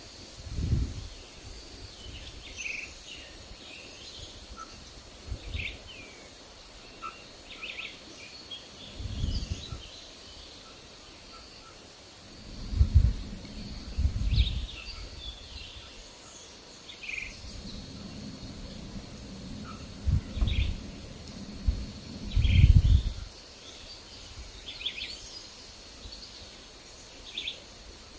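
Forest birds chirping in short, scattered calls over a faint steady insect drone. Several gusts of wind rumble on the microphone, the loudest around the middle and near the end.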